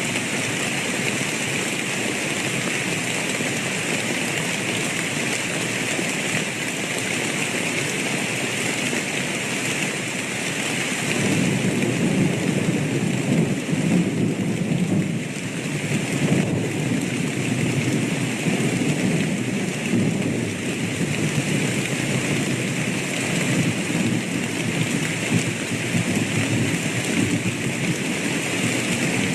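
Steady heavy rain with thunder rumbling, the rumble growing stronger about a third of the way in and rolling on to the end.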